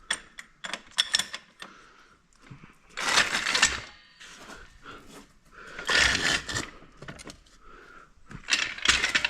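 Metal tools clicking and clinking, with three bursts of scraping about three, six and nine seconds in, as work goes on on the quad's chain and frame.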